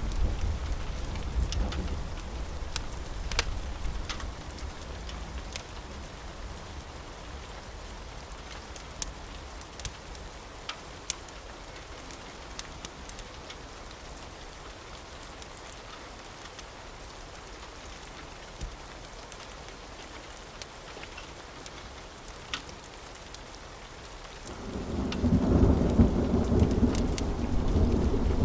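Steady rain with scattered sharp pops, a low roll of thunder dying away in the first few seconds, and a loud rumble of thunder building about 25 seconds in.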